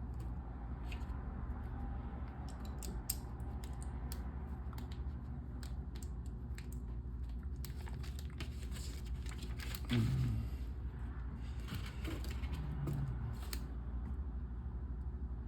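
Small plastic LEGO pieces clicking and rattling as they are handled and pressed together: scattered sharp clicks over a steady low hum.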